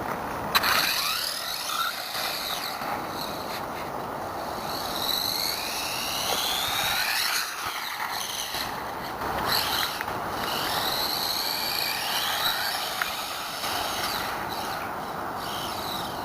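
A 1/18 RC monster truck's brushless motor (3650-size, 4370 kV, on 3S) whining, its pitch sweeping up and down again and again as the throttle is worked, over a steady rushing noise.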